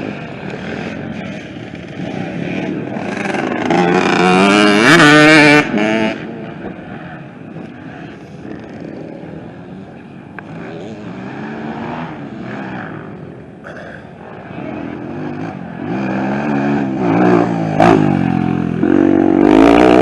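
Dirt bikes racing by, their engines revving up and down as they pass. The loudest passes come about four to six seconds in and again near the end.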